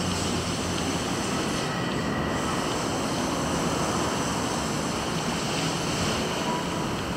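Steady low rumble with a hiss, like a vehicle engine running or passing, with no distinct events.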